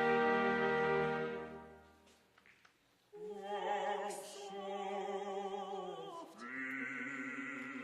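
Live opera music: a sustained chord fades out in the first two seconds, then after a brief pause an operatic voice sings long held notes with vibrato, moving to a new note about six seconds in.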